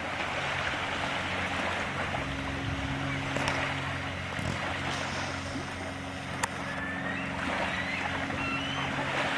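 Steady low hum of a distant motorboat engine running over the soft wash of small waves and wind, with a single sharp click about six and a half seconds in.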